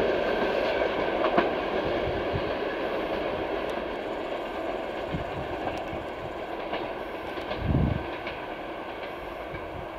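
Passenger train coaches rolling away on the rails, the wheel-on-rail rumble slowly fading as the train recedes. A sharp click comes about a second and a half in, and a brief low thump near the end.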